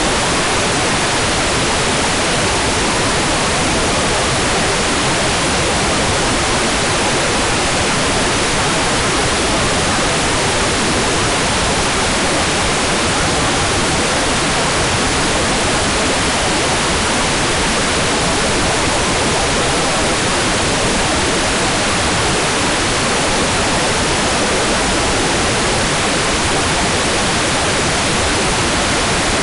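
Hair dryer blowing steadily: an even, unbroken rushing noise that does not change.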